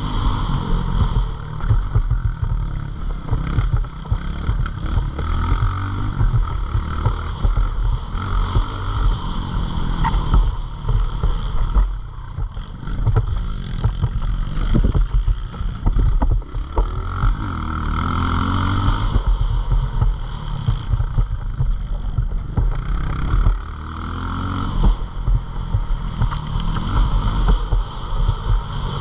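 Pit bike's small single-cylinder engine running hard, its pitch rising and falling several times as the throttle is worked, over a heavy low rumble.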